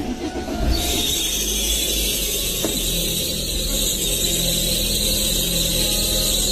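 Car noise: a low engine rumble with a loud steady high-pitched hiss and whine over it, starting under a second in and cutting off suddenly near the end.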